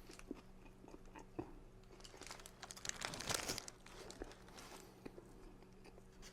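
Faint eating sounds: a paper sandwich wrapper crinkling and someone biting and chewing a McDonald's Junior Chicken sandwich, with a louder burst of rustling about three seconds in.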